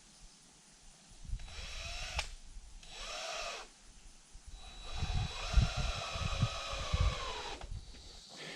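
Cordless drill driving screws into wood: three runs, each winding up and back down, the last one the longest, with thuds of the wood under it.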